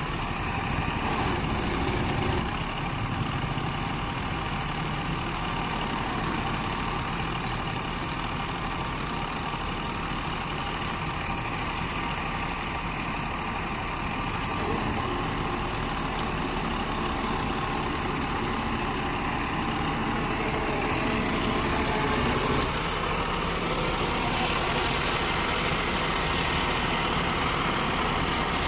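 Engine idling steadily, with a slight change in its note about 22 seconds in.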